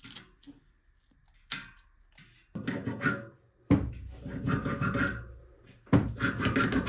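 Hand rubbing or filing on a workpiece: a few light ticks, then from about two and a half seconds in three long, loud, rough strokes, each lasting about two seconds.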